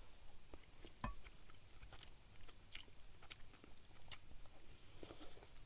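A person chewing a mouthful of instant broccoli and cheddar rice, with faint, irregular small clicks and smacks.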